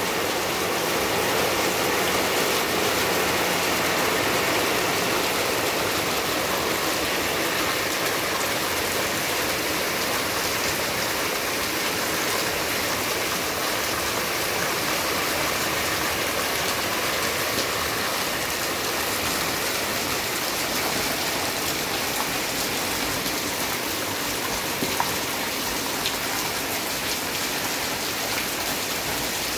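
Steady rain falling on a wet paved courtyard, with a stream of roof runoff pouring down and splashing onto the paving.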